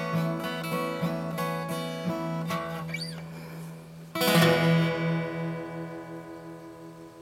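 Acoustic guitar playing the close of a song: picked notes, then a final strummed chord about four seconds in that rings and slowly fades away.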